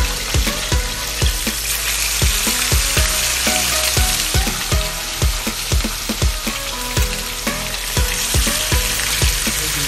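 Chicken wings frying in a shallow layer of hot oil in a pan, a steady sizzle. Background dance music with a steady beat plays over it.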